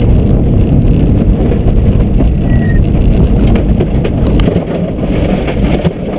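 Subaru rally car driven hard, heard from inside the cabin: a dense, loud mix of engine and road noise with many sharp knocks and rattles from the car and surface.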